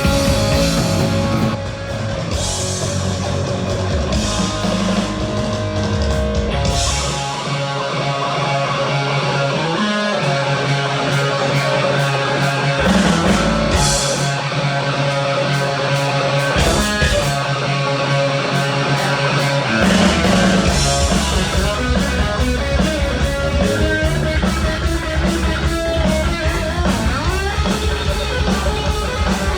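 Heavy metal band playing live, with distorted electric guitar and drum kit. The bass and kick drop out from about seven seconds in, apart from a couple of brief hits, and the full band comes back in about twenty seconds in.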